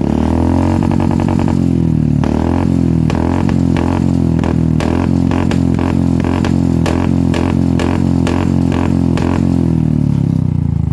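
Royal Enfield Classic 350's single-cylinder engine running at a steady speed through an aftermarket full exhaust system: a loud, even exhaust note with a regular beat of about two or three sharp pulses a second.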